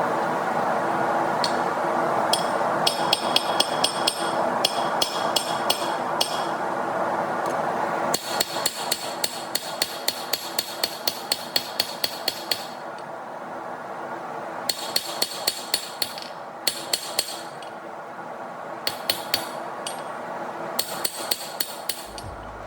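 Hammer forging hot steel on an anvil: runs of quick, ringing hammer blows, several a second, with short pauses between the runs, shaping the tang of a kukri blade. Under them runs a steady rushing noise that drops in level about eight seconds in.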